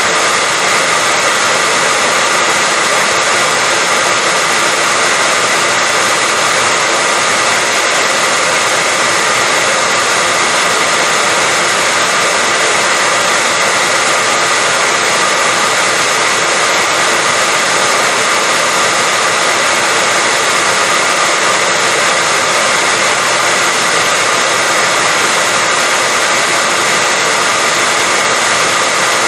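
Hair dryer running steadily: an even, unchanging rush of blowing air with a faint steady whine.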